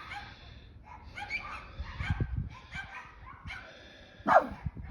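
Dogs yapping over and over, with one loud, sharply falling yelp near the end.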